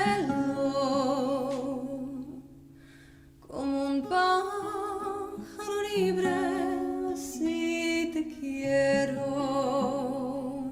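A song: a singer holds notes with vibrato over a sustained low accompaniment, with a short pause about two seconds in before the melody resumes.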